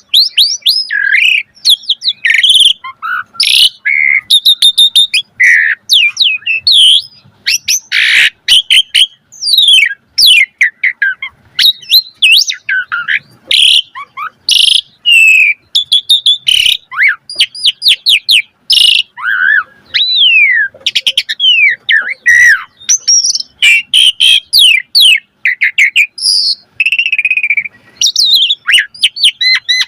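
Asian pied starling singing a long, varied song: a fast, continuous run of whistled notes gliding up and down, broken by sharp clicks and short rasping bursts.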